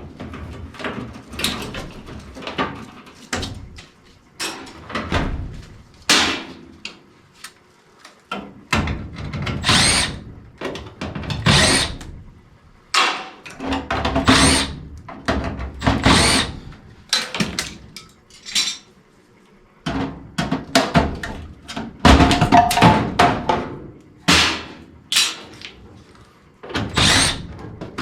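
Hand tools and furnace parts clattering and knocking in an irregular string of short bursts, mixed with brief runs of a cordless power driver.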